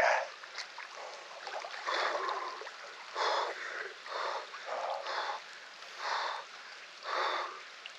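A person breathing hard and rhythmically, about one forceful breath a second, while immersed in cold water: the quick breathing of cold shock.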